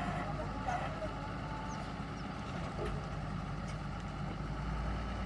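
Engine of a truck-mounted borewell drilling rig running steadily with a low, even hum.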